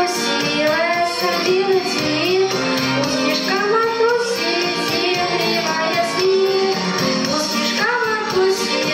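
A song with children singing over an instrumental backing track with a steady beat.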